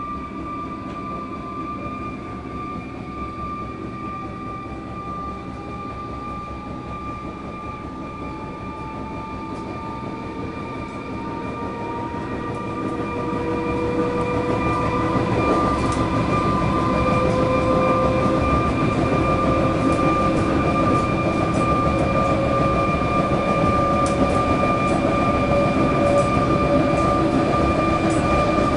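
Electric suburban train running, heard from on board: wheels and running noise with the whine of the traction motors, which rises in pitch as the train picks up speed. It gets clearly louder about halfway through.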